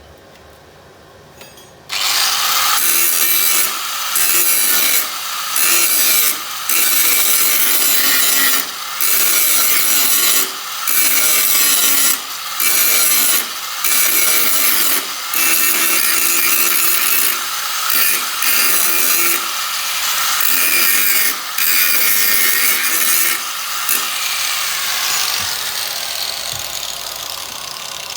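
Power grinder grinding the steel floor panel of a Vespa scooter, in a series of passes broken by brief lifts of the tool about every second or two, trailing off near the end.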